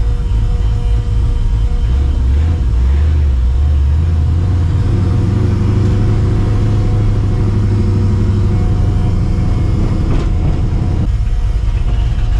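Cammed, Procharger-supercharged 5.4-litre V8 of a 1999 Mustang GT running under way: the engine note rises about two seconds in, holds steady under load, then drops off about eleven seconds in.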